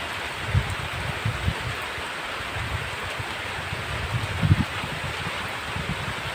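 Heavy rain falling in a steady hiss, with irregular low thumps and rumbles underneath, the strongest about four and a half seconds in.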